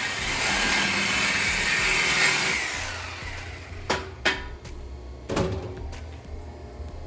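A power cutting tool runs on a car's exhaust pipe during a muffler delete, then fades out about three seconds in. Several sharp metal clanks follow.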